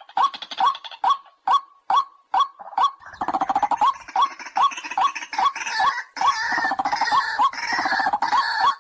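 White-breasted waterhen calling: a regular series of short clipped notes, about two and a half a second. About three seconds in, a dense layer of harsh croaking calls joins and overlaps them until near the end.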